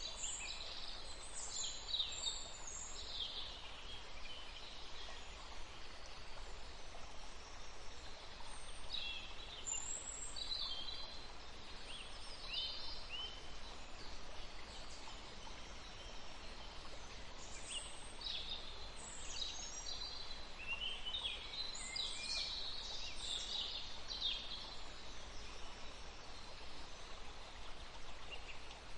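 Forest birds chirping and singing in scattered bursts of short high notes, over a steady background hiss of outdoor ambience.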